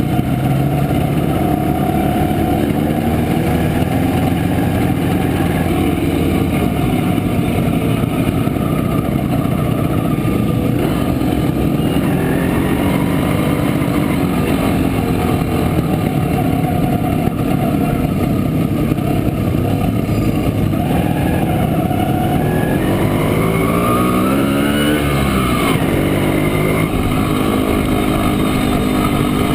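1967 Montesa Impala Comando 175's two-stroke single-cylinder engine running on the road. Its pitch climbs and then drops again about three-quarters of the way through.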